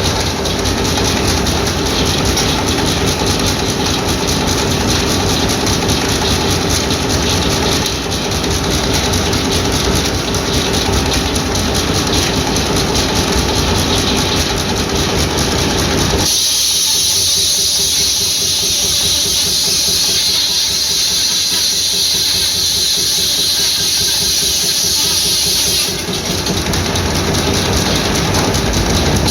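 Circular sawmill running, driven by hot-bulb engines: a steady, dense mechanical sound with a rhythmic beat and a constant hum. About halfway through, the low end falls away and a loud high hiss takes over for roughly ten seconds, then the full running sound returns.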